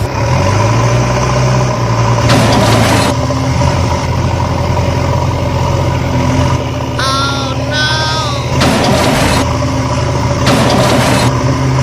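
A heavy engine running steadily with a constant whine above it. Three short hissing bursts break in, and a few brief chirps come about two-thirds of the way through.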